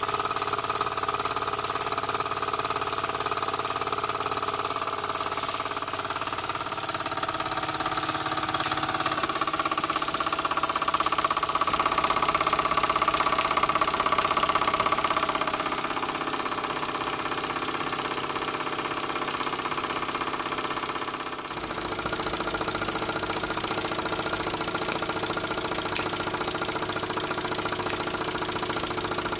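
Model steam engine running steadily while driving a Baker fan as a working load. It picks up a little in speed and loudness partway through, and its sound changes abruptly about twenty-one seconds in.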